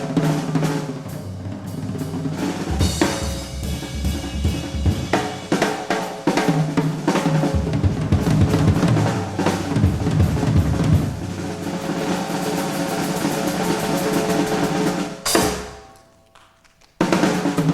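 Live jazz piano trio playing from an old cassette recording of an FM broadcast, the drum kit busy with snare, bass drum and rolls over piano and double bass. About 15 s in a loud stroke dies away to a low level, and about a second later the music cuts back in abruptly.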